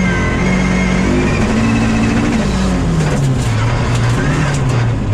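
Rally car's engine heard from inside the cabin, the revs climbing and dropping in steps as it works through the gears, with a thin high whine that rises and falls with the engine.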